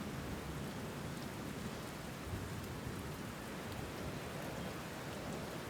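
Steady rainfall, an even hiss of rain with faint scattered drops.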